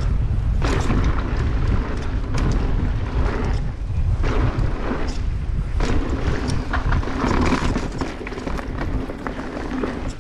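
Wind buffeting the microphone over the rumble of mountain bike tyres on a dirt trail at speed, with scattered clicks and rattles from the bike.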